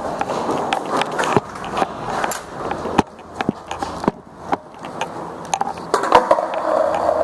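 Skateboard wheels rolling on concrete, with several sharp clacks of the board along the way.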